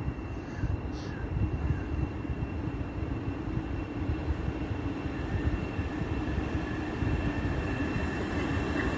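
A Class 379 electric multiple unit passes through the station without stopping: a steady rumble of wheels on the rails, with a thin, steady high whine.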